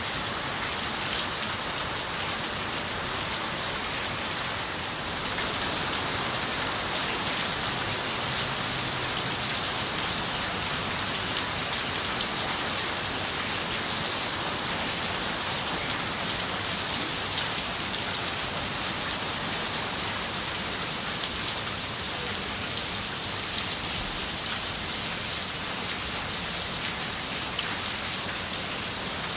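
Steady rain falling on a window, with scattered drops ticking; it grows slightly louder about five seconds in.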